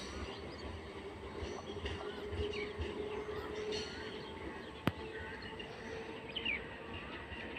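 Birds chirping in short rising and falling calls over a low rumble and a steady hum, with one sharp click about five seconds in.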